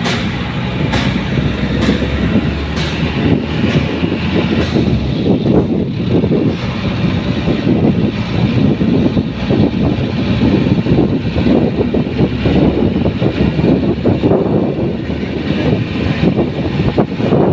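Motorcycle in motion: loud, steady wind and road noise with no clear engine note. There is a regular knock about once a second in the first five seconds.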